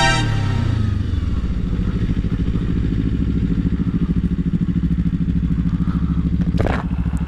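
Motorcycle engine dropping quickly from a rev back to idle, then idling with a steady pulsing beat. A brief sweeping sound comes near the end.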